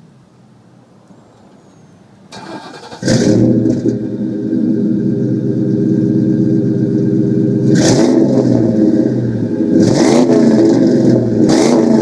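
2001 Ford Mustang GT's 4.6-litre V8 being started through its exhaust: a brief crank about two seconds in, the engine catching loudly about a second later, then a steady idle with three short throttle blips near the end.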